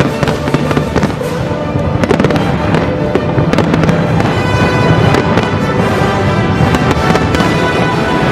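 Aerial fireworks bursting in a dense, continuous run of bangs and crackles, over loud Chinese orchestral music that plays throughout.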